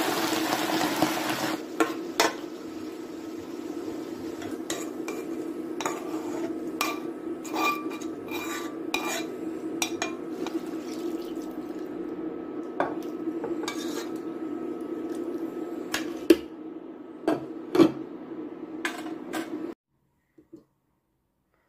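A metal utensil clinking and tapping against a cooking pot, a dozen or so sharp, sometimes ringing knocks, over a steady low hum. Water rushes briefly at the start. All sound cuts off abruptly near the end.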